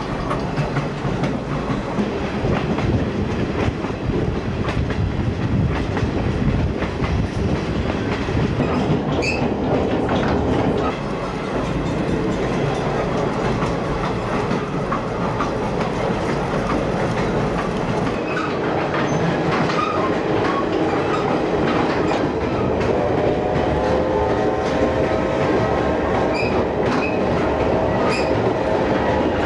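Steady rolling noise of a steam excursion train's cars riding the rails, heard from on board, with occasional sharp clicks from the wheels and track.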